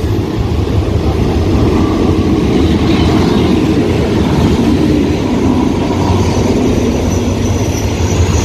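Diesel locomotive of a passenger train passing close by as the train pulls in to stop, followed by its carriages rolling past on the rails. The sound builds in the first second and then holds as a loud, steady rumble, and a faint high squeal comes in near the end as the train slows.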